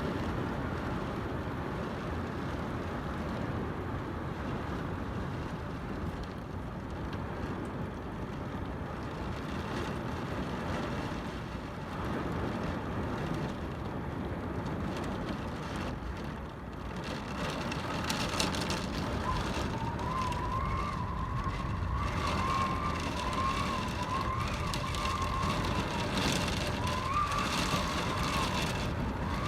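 Heavy downpour of thunderstorm rain, a steady hiss and wash of falling water. About two-thirds of the way through, a wavering, whistle-like tone comes in and holds to the end.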